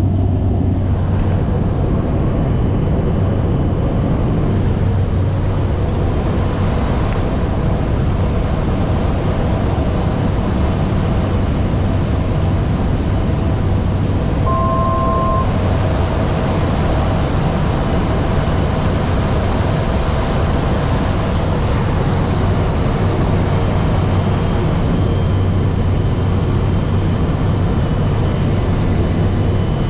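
Steady airliner cabin noise from a passenger seat: engine and airflow noise with a low drone, even throughout. A brief tone sounds about halfway through.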